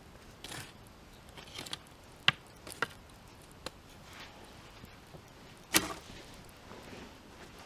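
A few sharp knocks and clicks, the loudest two about two and a half seconds and almost six seconds in, with soft rustling between them.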